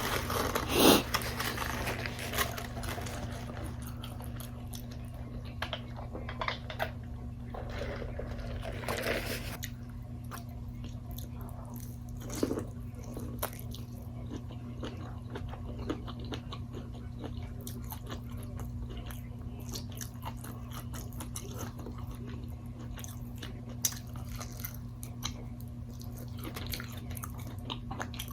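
A person eating chicken wings, with crunchy bites, chewing and scattered wet mouth clicks. The loudest bites come about a second in and again around nine seconds, all over a steady low hum.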